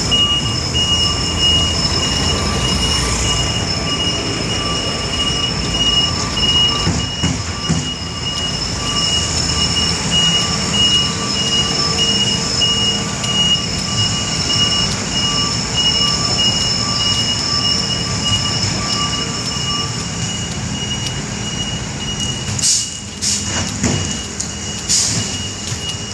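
Heavy road-repair machinery running steadily: a low engine rumble with a high, rapidly pulsing whine over it. A few clattering knocks come near the end.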